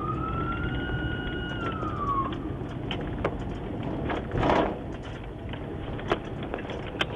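A siren wailing: one smooth rising tone that holds and then slides down and fades over about two seconds, followed by steady background noise with a few knocks and a brief noisy burst about four and a half seconds in.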